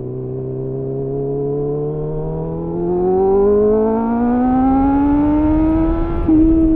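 Suzuki GSF 600 Bandit's inline-four engine through an aftermarket slip-on exhaust with a home-made dB-killer, pulling in one gear, its note climbing steadily with revs. Near the end it gets suddenly louder as the throttle opens further.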